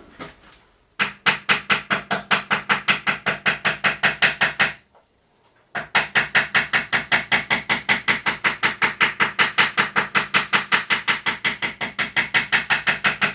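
Fast, even strokes of a hand tool on the valve seat of a traction engine water gauge, about five a second, in two long runs with a pause of about a second between them, as the seat is worked in.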